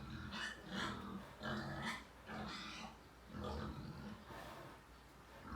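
Sow grunting in short low bursts about once a second while nursing her newborn piglets, with the piglets' high-pitched squeals and squeaks over the grunts.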